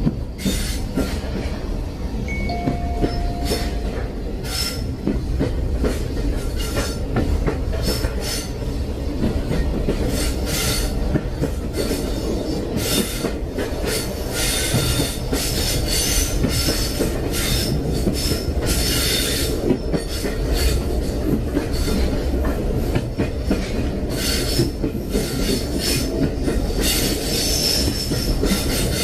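Train running on rails: a steady low rumble with frequent short metallic wheel squeals and clicks.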